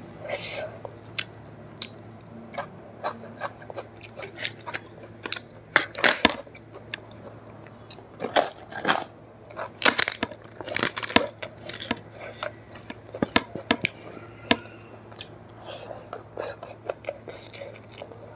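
Close-miked chewing of rice with pakoda kadhi, eaten by hand: a run of irregular sharp mouth clicks, with a steady low hum underneath.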